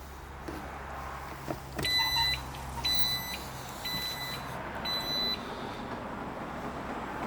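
Electronic warning chime of a Jeep Cherokee beeping four times, about one beep a second, each about half a second long, just after a click. A low steady hum runs under the beeps and fades out near the last one.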